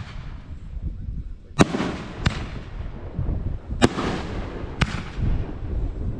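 Fireworks going off: four sharp bangs spread over a few seconds, each trailing off in a fading echo.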